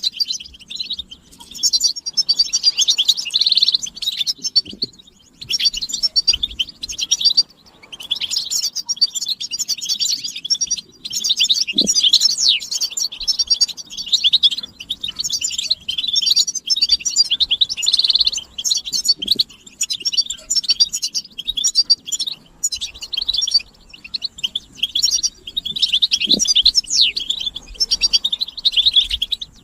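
Several European goldfinches twittering and singing almost without pause: rapid, tinkling, high chirps and trills, with only a few brief breaks.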